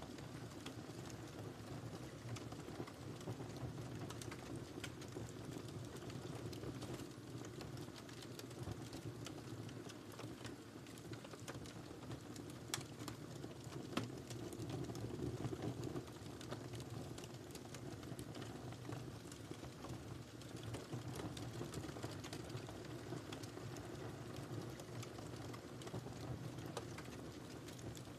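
Wood fire burning in a fireplace: a steady low rumble of flames with frequent small crackles, and a couple of sharper pops about halfway through.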